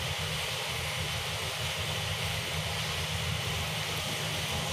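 Diced onion and capsicum sizzling steadily as they fry in butter and oil in a frying pan, over a steady low rumble.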